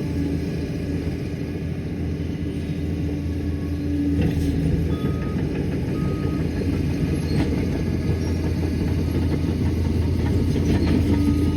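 Liebherr PR 746 crawler dozer's diesel engine running steadily, getting louder about four seconds in as it works, with faint clanks and a few faint short beeps.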